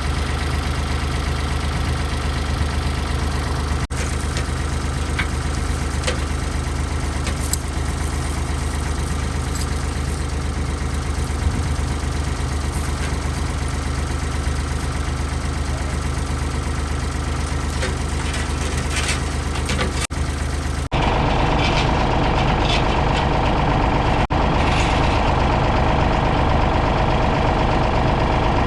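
Ford 555 backhoe loader's engine running steadily. After a brief break about two-thirds of the way through, it comes back somewhat louder.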